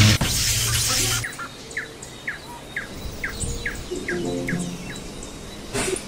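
A loud rushing noise cuts off about a second in, followed by a bird repeating short, falling chirps, two or three a second.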